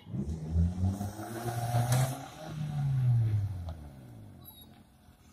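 Hyundai i10 hatchback's engine revving hard. The revs climb over the first two seconds, then fall away, and the engine fades out about four seconds in.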